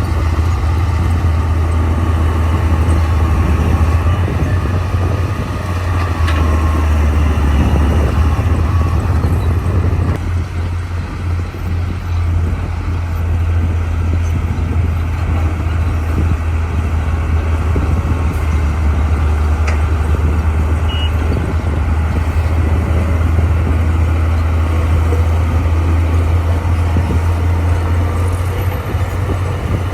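Bulldozer diesel engine running steadily with a deep, continuous drone, easing slightly about ten seconds in and then picking up again.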